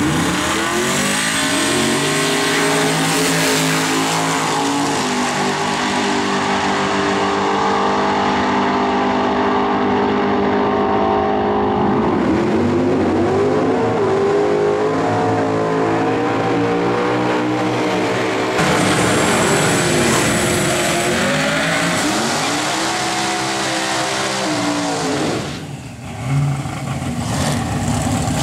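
Twin-turbo Chevy pickup engine revving up and held at high revs for about ten seconds, then revs rising and falling again and again before dropping off sharply near the end.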